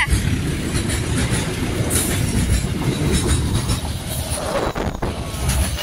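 Container freight train passing close by. Its flatcar wheels give a steady rolling rumble with repeated clacks over the rail joints.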